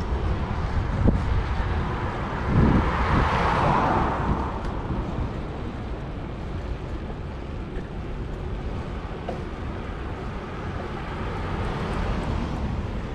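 City street traffic heard from a moving bicycle, with a steady low wind rumble on the microphone. A vehicle passes close by about three seconds in, swelling and then fading.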